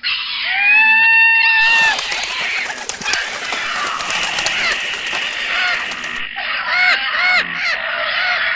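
Birds calling in a dense chorus: one long call about half a second in, then many overlapping calls, with short rising-and-falling calls repeating quickly near the end.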